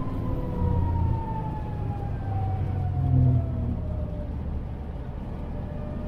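Toyota GR Yaris turbocharged three-cylinder running on the overrun: a whine falls slowly and steadily in pitch over a low engine and road drone, as the revs and speed drop.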